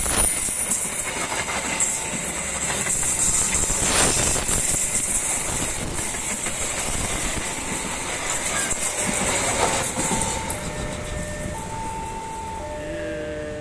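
KA Jayabaya passenger train running by, its wheels clattering over the rail joints amid a steady rush of rail noise. The noise dies down over the last few seconds.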